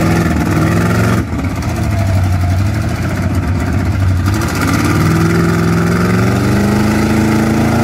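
Off-road 4x4 vehicle engine working hard and revving. Its pitch drops with a brief dip about a second in, then climbs steadily through the second half as it accelerates.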